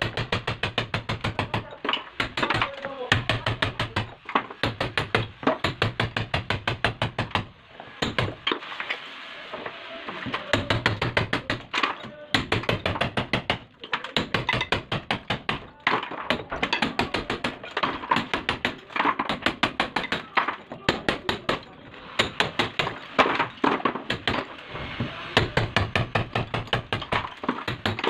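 Hammer blows on a chisel chipping out a wall to recess a shower valve, struck in fast runs of about five blows a second with short pauses between runs.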